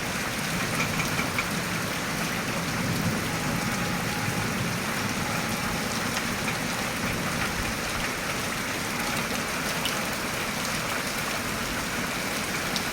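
Steady rain falling: an even hiss with occasional faint drop ticks.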